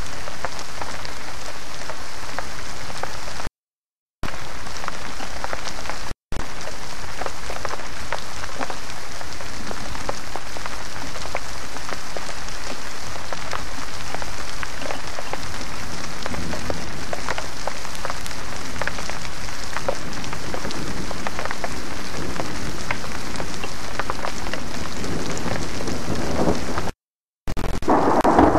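Heavy rain falling steadily, a dense hiss full of drop impacts, during a thunderstorm. A loud low rumble of thunder begins near the end. The sound cuts out completely three times, briefly.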